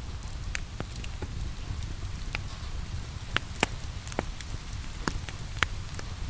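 Wood fire crackling in a fireplace, with sharp pops and snaps at irregular moments, about eight in all. Under them runs a steady rain hiss and a low rumble.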